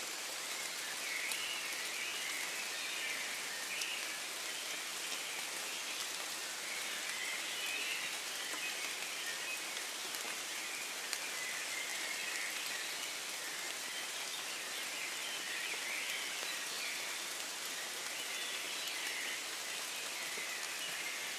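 Steady rain falling in woodland, an even hiss. A dense, continuous chorus of high calls runs under it.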